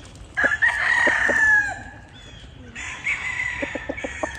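Roosters crowing: one loud crow starting about half a second in, then a second, quieter crow about three seconds in, with other fowl calling behind.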